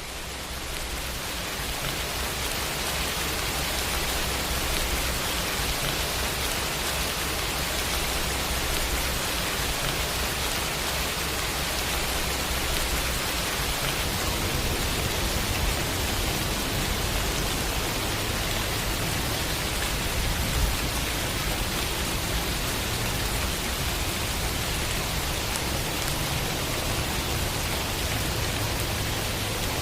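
Steady, dense rain falling and pattering on a surface, fading in over the first second or so.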